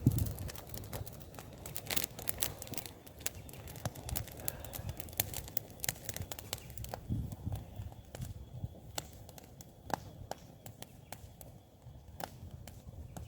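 Wood campfire crackling, with many sharp irregular snaps that grow sparser after about seven seconds.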